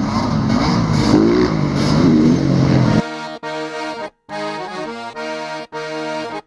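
Dirt bike engines revving, the pitch rising and falling, for about three seconds. Then it cuts to music of held accordion-like chords, broken by two brief dropouts.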